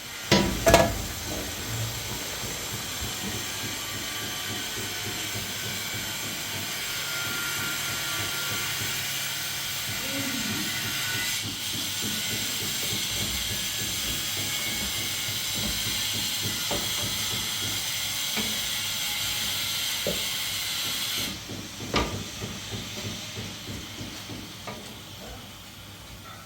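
A steady, loud hiss that runs for about twenty seconds and then cuts off suddenly, with a knock just as it starts and another right after it stops.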